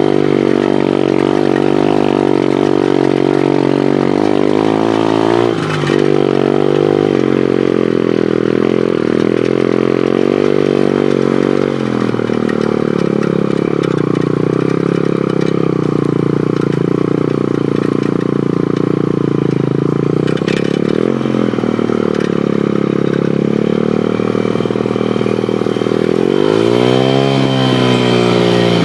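Pit bike engine running under way, its pitch dipping briefly a few times as the throttle is eased, then revving up sharply near the end.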